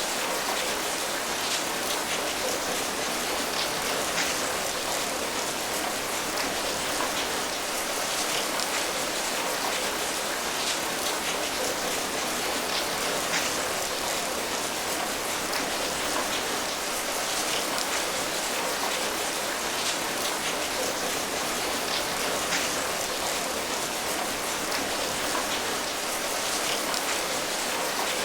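Steady rain falling, a dense even patter with many fine individual drop hits and no change in intensity.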